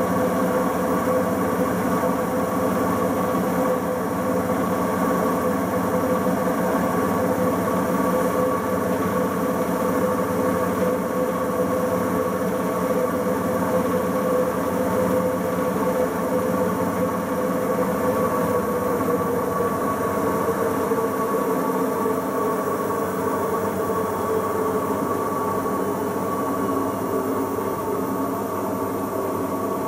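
Bosch Logixx washing machine on its 1000 rpm interim spin: the drum motor whines steadily with the drum's rumble under it, the pitch sagging slightly in the second half.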